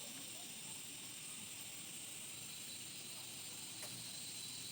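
Steady high-pitched hiss, with a single faint click about four seconds in.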